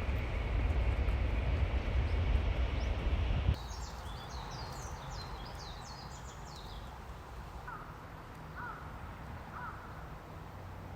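A loud low rumble that cuts off abruptly about three and a half seconds in, followed by birds outdoors: a flurry of high chirps, then three short caws about a second apart.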